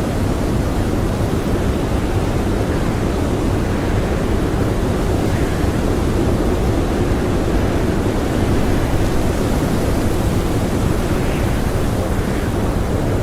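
Blizzard wind blowing hard and steadily, a dense rushing noise heaviest in the low end, with no gusts or breaks standing out.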